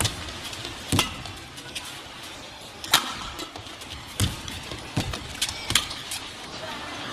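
Badminton rally: sharp cracks of rackets striking the shuttlecock, about one a second, over the steady hiss of the arena crowd.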